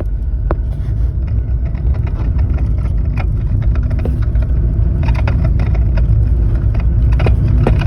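Steady low rumble inside a Ford Freestyle on the move, with scattered light clicks and knocks: the rattle coming from the rear of the car.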